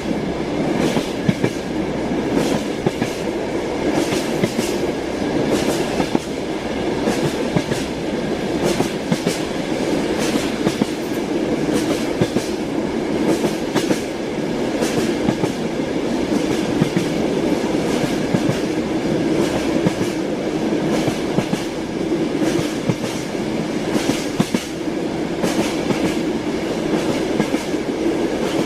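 Moving train heard from inside a carriage: a steady rumble with the wheels clacking irregularly over the rail joints.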